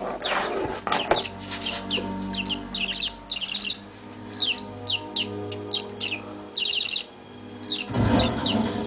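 Pet budgerigar chirping: a run of short, quick falling chirps and buzzy warbles, over background music from a television. A couple of louder noisy bursts come near the start and near the end.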